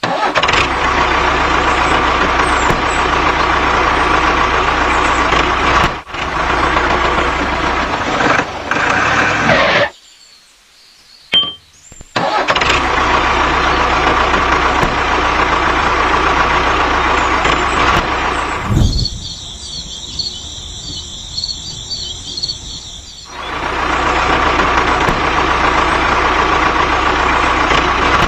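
Small diesel engine running steadily, in several stretches cut together. About ten seconds in it drops out for a near-silent pause of about two seconds. Later, for a few seconds, it gives way to a quieter, thin, high repeating sound before the engine comes back.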